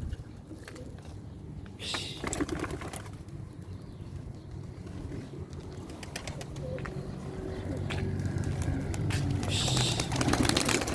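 Domestic pigeons cooing, the cooing growing louder toward the end.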